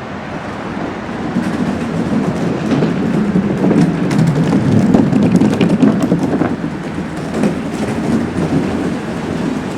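Small skateboard's wheels rolling over a hard surface: a rumbling clatter with small clicks that swells in the middle and eases off toward the end.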